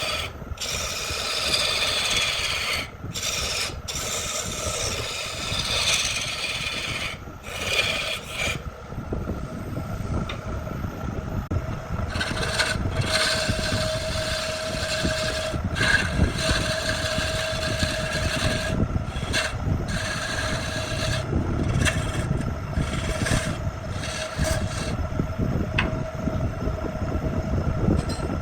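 Wood being worked with an abrasive or cutting tool: a continuous rough rasping, rubbing noise. About halfway through a steady motor-like hum joins it, and the sound breaks off briefly several times.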